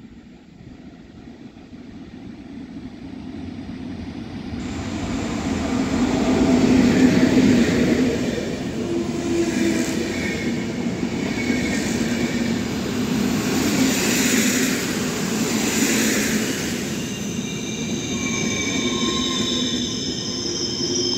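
PKP Intercity passenger train approaching and running past along the platform. The rumble builds over the first several seconds to its loudest as the train arrives, then the coaches roll by steadily. Near the end, high squealing tones from the train join in.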